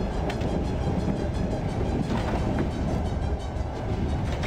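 Steady low rumble of a moving train, with scattered short clicks and clanks over it.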